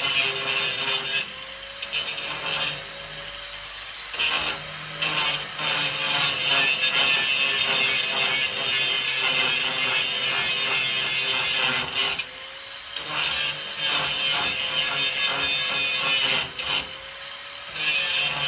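Hand-held power tool grinding on the truck's sheet steel with a harsh rasp, in long runs broken by about four short pauses where only the tool's motor whine is left.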